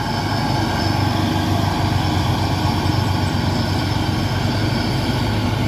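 Ten-wheel heavy truck's diesel engine running steadily at low revs, an even hum with no change in pitch.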